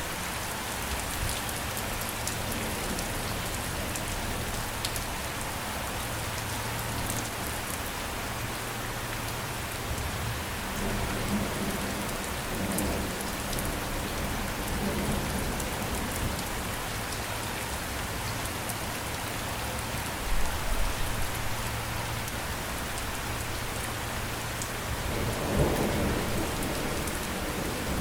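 Steady rain falling, with low rumbles of thunder in the middle and again near the end.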